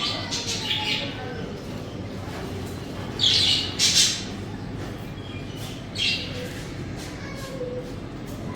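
Budgerigars chirping and warbling, with short loud squawks about three seconds in, again at four seconds, and once more at six seconds.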